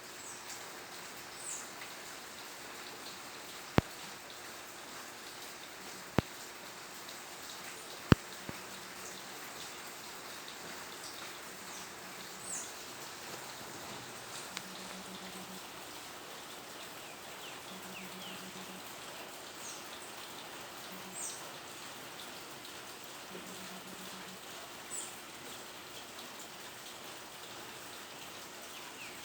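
Steady rain falling, with a few short high chirps of birds scattered through it. Three sharp clicks stand out, about four, six and eight seconds in.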